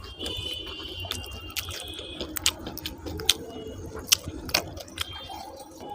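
A person chewing and smacking while eating rice and potato curry close to the microphone, with short wet mouth clicks about twice a second over a steady low hum.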